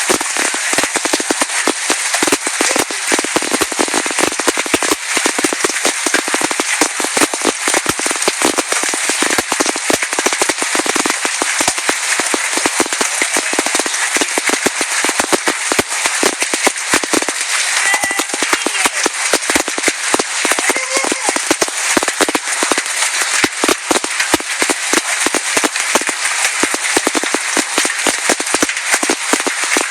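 Large hail, golf ball to baseball sized, pelting down in a dense, unbroken clatter of sharp impacts, many a second.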